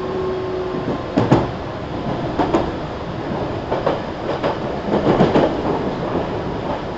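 Meitetsu 3300 series electric train running, a steady rumble with irregular loud clacks of the wheels over rail joints, bunched closer together about five seconds in. A steady tone fades out about a second in.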